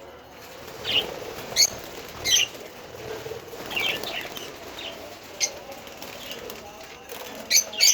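Pet parrots calling with short, sharp chirps at irregular intervals, with a quick run of several chirps near the end.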